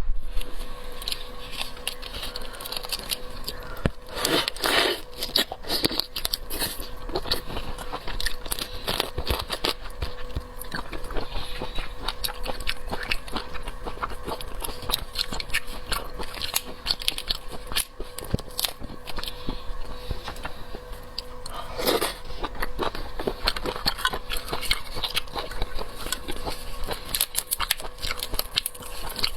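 A person eating tiger prawn close to the microphone: biting and chewing with many small crunchy, crackling clicks. There are louder bites about four seconds in and again past the twenty-second mark.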